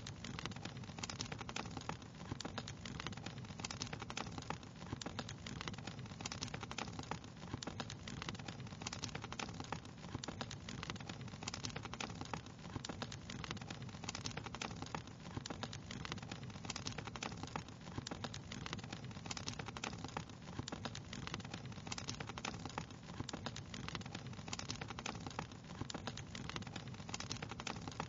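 Wood fire crackling: a dense, irregular stream of small pops and snaps over a low, even rush of flames.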